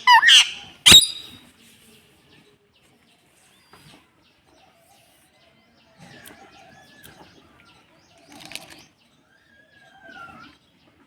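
A parrot calling: loud squawks that glide up and down in pitch at the start, a single sharp knock about a second in, then mostly quiet with a few faint whistles and chirps.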